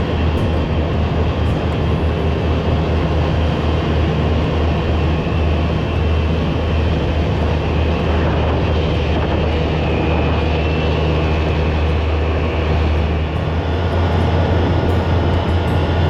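Polaris Ranger side-by-side UTV engine running steadily under way, with a constant low drone and rumble.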